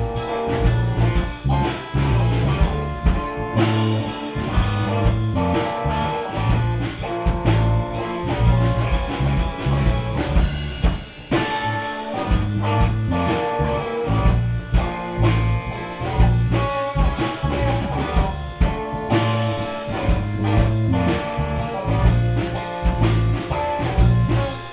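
Gypsy rock band playing an instrumental passage live, with drum kit, bass, guitar and accordion over a steady beat, and no singing.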